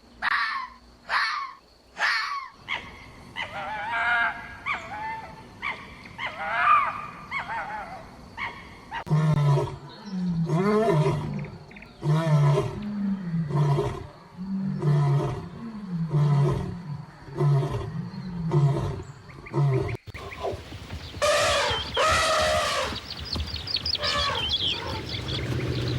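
A run of different animal calls, cut one after another. In the middle comes a series of deep grunting roars, about one a second, each falling in pitch, typical of a lion's roar. Other animal calls come before and after it.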